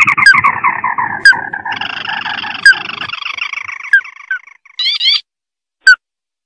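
Recorded lure call of a crake (burung tikusan mata merah): a long, rapid trill that slides down in pitch for about four seconds and fades, then a short burst of quick rising notes about five seconds in.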